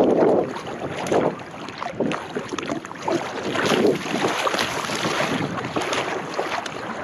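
Water splashing and sloshing from a sea kayak being paddled, with gusts of wind buffeting the microphone.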